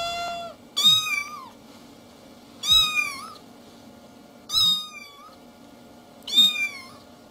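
Domestic cat meowing four times, about two seconds apart, each meow rising and then falling in pitch.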